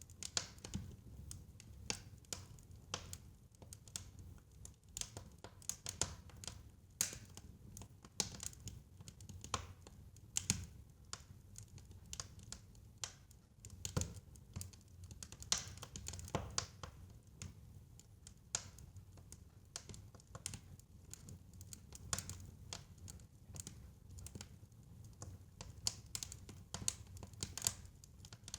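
Wood fire crackling in a fireplace: irregular sharp pops and snaps, a few a second, over a low rumble of the burning fire.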